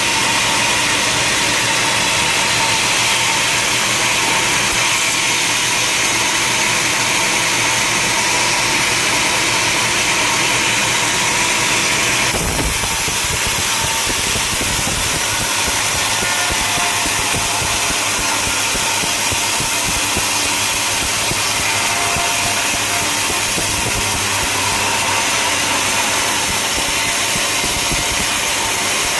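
Sawmill machinery running steadily: a motor-driven saw rig. The sound changes abruptly about twelve seconds in.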